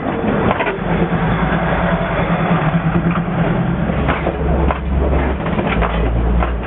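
Diesel train engine running with a steady deep hum as the train rolls slowly, with scattered clanks and clicks over it.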